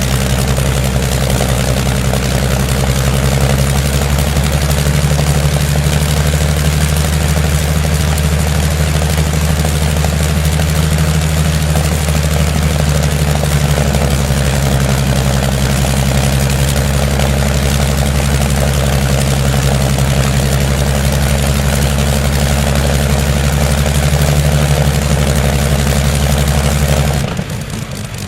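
An engine running steadily at an even speed, with a strong low hum; the low engine tones stop abruptly about a second before the end.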